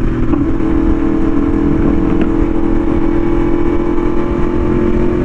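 Yamaha YZF-R1M's crossplane inline-four engine with an SC Project exhaust, holding a steady engine speed with an even, unbroken exhaust note.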